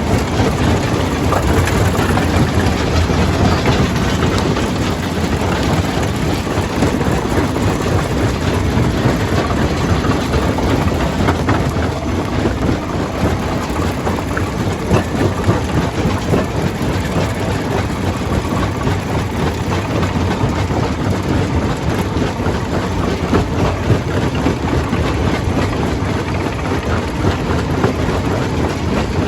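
Jaw crusher running and breaking rock: a steady heavy rumble of machinery with a dense, continuous clatter of stone being crushed.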